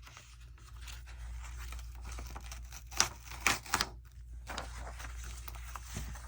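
Sheets of paper being handled and shuffled, with a quick cluster of sharp, crisp paper rustles about halfway through.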